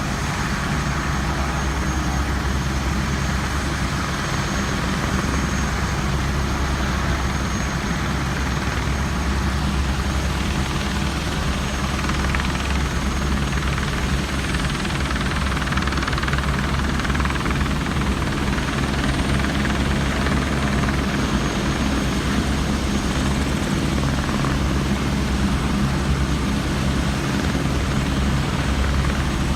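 Helicopter in flight: a steady, unbroken rotor and engine drone with a strong low hum.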